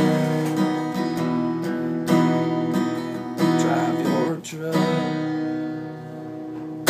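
Acoustic guitar strumming the closing chords of a country song, ending with a last strum near the end.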